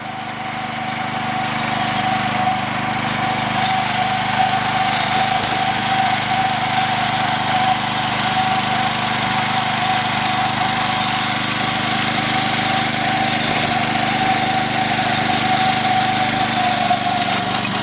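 MTD 990 garden tractor's 16 hp cast-iron Briggs & Stratton engine running steadily while the tractor is under way, with a steady high whine over it. The sound grows louder over the first two seconds, then holds.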